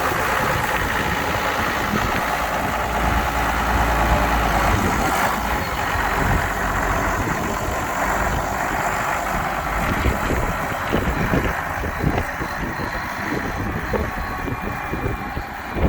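Case IH 5140 tractor's six-cylinder diesel engine running steadily.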